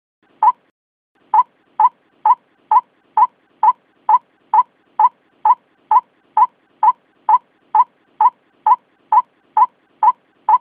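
White-breasted waterhen calling: short, clipped notes repeated evenly at about two a second, after a single opening note and a brief pause.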